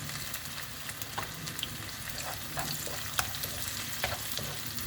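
Small onions and whole garlic cloves sizzling in gingelly (sesame) oil in a pan while being stirred, a steady frying hiss with scattered sharp crackles and ticks.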